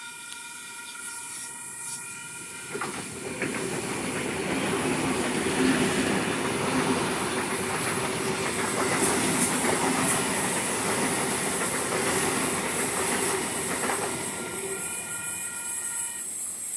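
Train passing on the line: the noise of its wheels on the rails builds about three seconds in, holds for around ten seconds, then dies away near the end.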